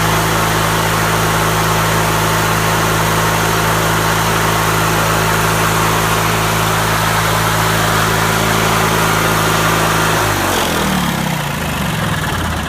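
18.5 hp Briggs and Stratton opposed-twin vertical-shaft riding-mower engine running at a steady speed, then slowing and winding down about ten seconds in. The owner describes it as running great and idling smooth.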